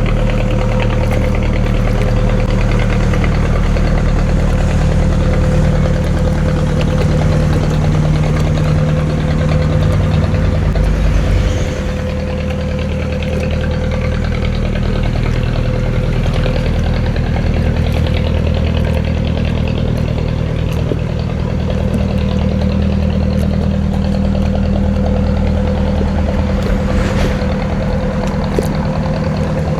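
Motorboat engine running steadily with a low drone and a steady hum above it. It eases down slightly about twelve seconds in.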